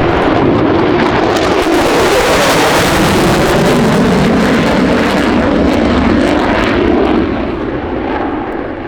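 Airplane engine noise as a plane passes: a loud, steady roar that begins to fade away near the end.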